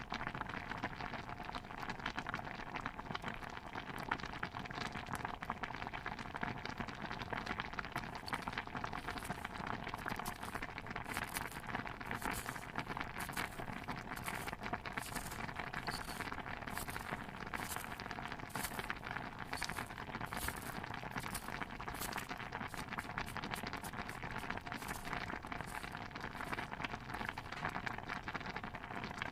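Layered kitchen ambience: a steady patter with crackling and a bubbling stew pot. From about eight seconds in until near the end, a run of quick, light, sharp taps joins it.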